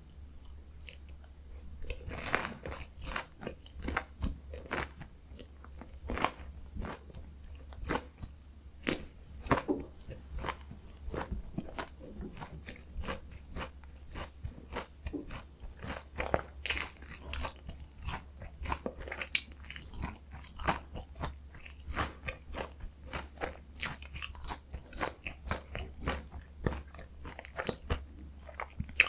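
Chewing and biting into a potato-coated mozzarella corn dog: the crisp fried crust crunches in many quick, irregular bites and chews.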